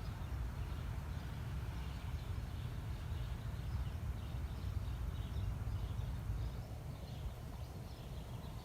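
Outdoor winter ambience: a steady low rumble with faint, repeated high chirps of small birds.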